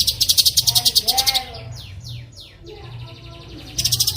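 Songbird song played for bird training: a rapid high trill of about a dozen notes a second, then a few falling whistles, then the fast trill again near the end.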